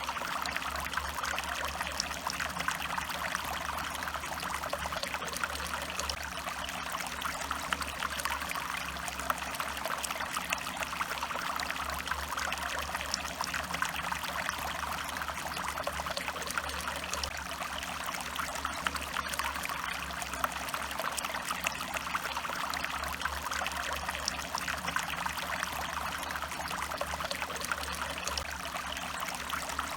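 Stream water running, a steady trickling and pouring with no break.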